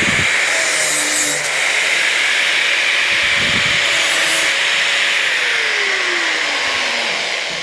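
Angle grinder with a thin cutting wheel slicing along the seam of a metal motorcycle fuel tank, a steady high grinding hiss. Near the end the motor is let off and winds down, its pitch falling.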